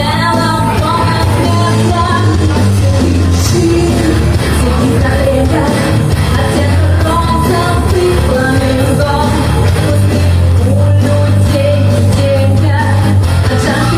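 A woman singing a rock song with full band accompaniment, the bass line running steadily underneath.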